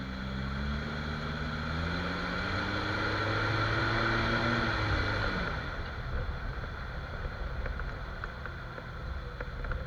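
Jeep Cherokee XJ engine running under way. Its pitch climbs for the first few seconds, then drops back about five seconds in as it eases off, leaving a steady low rumble.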